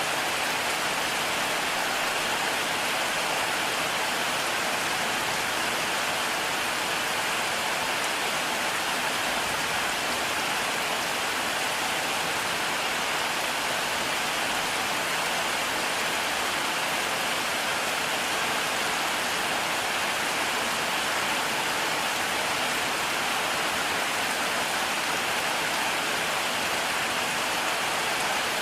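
Heavy rain falling steadily, a dense, even hiss of rain with no thunder in this stretch.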